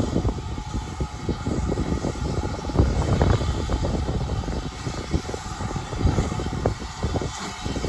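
Strong wind buffeting the microphone: an uneven, gusty low rumble over a steady hiss.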